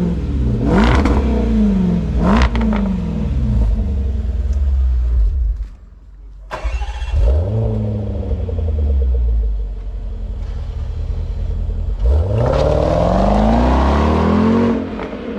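Supercharged 5.0-litre V8 of a Land Rover Defender through an aftermarket switchable exhaust with the valve held open, blipped in several quick revs, then running steadily and revved once more in a longer climb and fall near the end.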